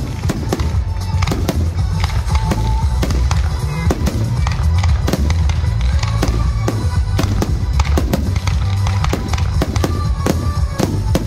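Fireworks display: aerial shells bursting in a rapid, irregular string of sharp bangs, several a second, with music playing underneath.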